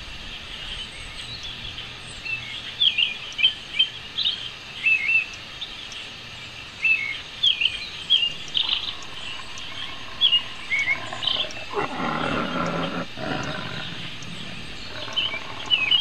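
Birds chirping outdoors: many short, quick chirps in irregular clusters. About twelve seconds in, a louder, lower noise lasts for about a second.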